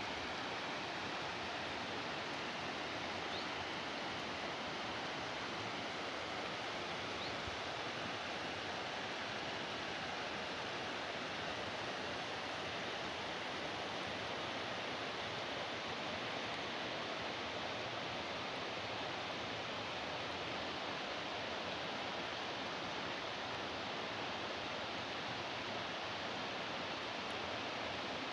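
Steady rush of water flowing along an old water channel, even and unbroken.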